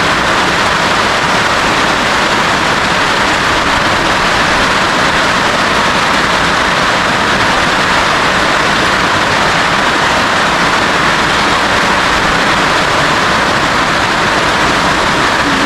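Heavy rain falling on a roof: a loud, steady hiss with no letup.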